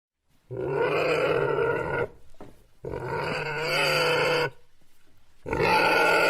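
An animal calling: three long pitched calls of about a second and a half each, separated by short gaps.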